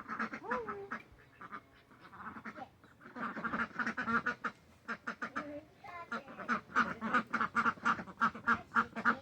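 Domestic ducks quacking in long runs of rapid calls, with a short lull about a second in.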